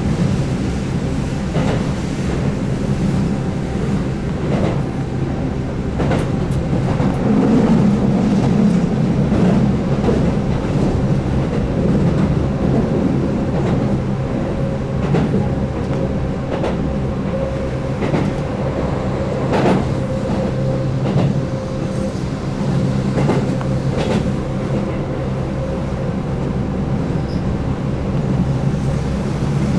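Keihan 8000-series electric train running at speed, heard from inside the car: a steady rumble with a faint motor tone, and irregular clacks of the wheels over rail joints.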